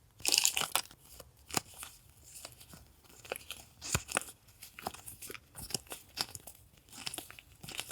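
Paper and plastic sticker packaging handled up close: irregular crinkles, rustles and light taps, with a dense rustle just after the start and a sharper tap about four seconds in.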